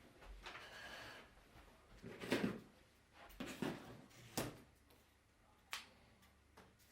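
Handling noise from opening a delivery box of fireworks: a soft rustle, then several separate short knocks and scrapes as the packaging and contents are moved.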